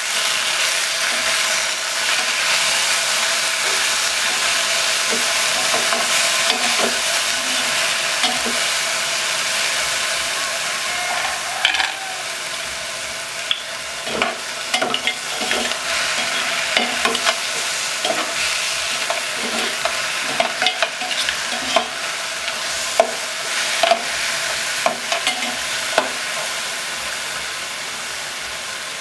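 Onions, garlic and green vegetables sizzling in hot oil in a pot while being stirred. From about twelve seconds in, frequent sharp clicks and knocks join the sizzle as snail shells are stirred against the pot.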